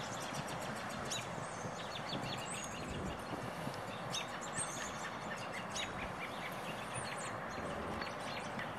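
Small birds chirping in short, high calls scattered throughout, over a steady outdoor background hiss.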